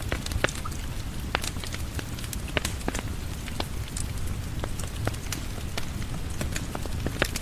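Rain falling steadily on a porch, mixed with the irregular crackle and pops of a wood fire.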